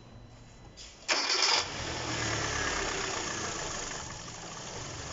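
Kia Cerato's engine cranked by the starter, catching about a second in, then running at a fast idle that slowly settles, with a freshly fitted replacement alternator and belt.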